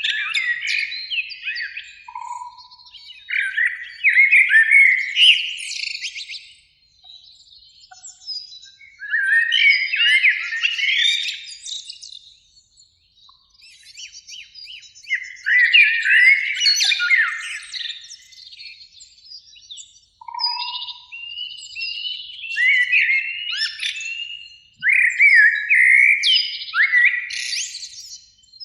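Eurasian blackbird song: phrases of fluty whistled notes that end in higher, scratchier twitters, repeated every few seconds with short pauses between them.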